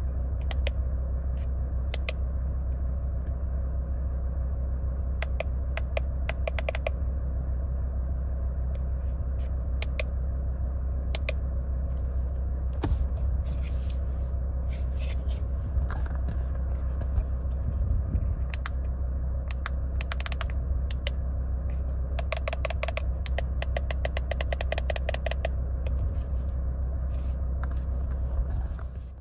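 A car engine idling with a steady low rumble, which dies away near the end. Over it come many light clicks in quick clusters, like buttons being pressed.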